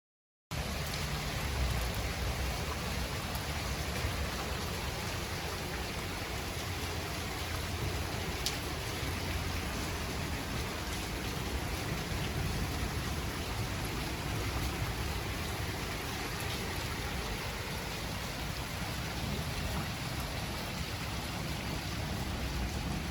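Steady rain falling, an even wash of noise with a low rumble underneath, starting abruptly just after the beginning.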